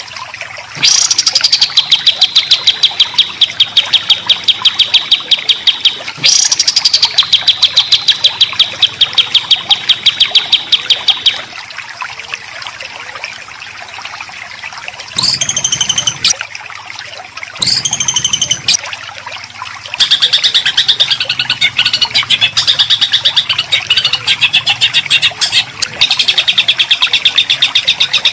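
Songbird singing a rapid, harsh rattling trill of sharp repeated notes. It opens with two long trills, each starting with a high swooping note, breaks into two short high calls, then goes back to continuous fast trilling near the end.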